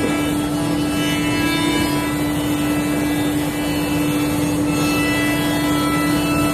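CNC router spindle running at a constant speed, a steady whine with overtones over a noisy hiss.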